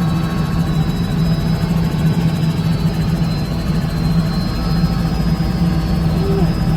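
Helicopter running steadily: a continuous engine and rotor noise with a strong, unchanging low hum.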